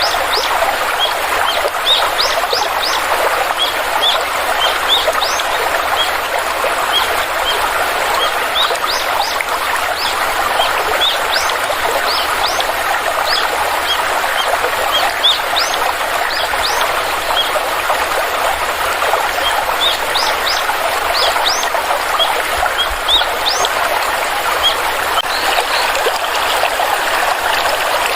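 Forest stream flowing steadily, with birds giving many short, high chirps over the rush of the water throughout.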